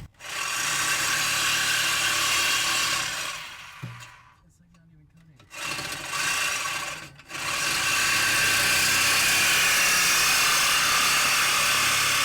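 Welding arc crackling on a car's steel exhaust pipe as leaking joints are welded up: a run of about three seconds, a pause, a short burst, then a long continuous bead.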